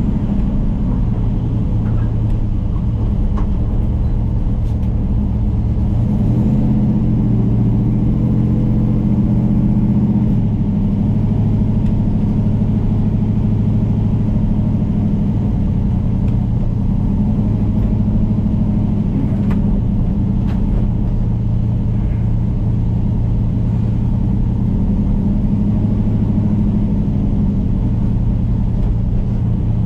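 Turbocharged LS V8 engine of a pickup truck running steadily at low revs, shifting slightly in pitch a couple of times.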